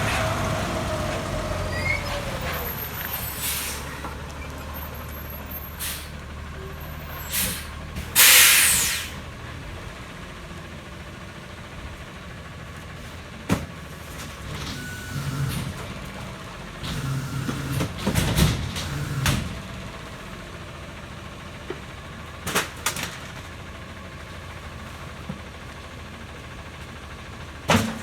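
McNeilus rear-loader garbage truck running with a steady low engine note. A falling whine dies away in the first couple of seconds, and a loud air-brake hiss comes about eight seconds in. Several sharp knocks and bangs are scattered through the rest.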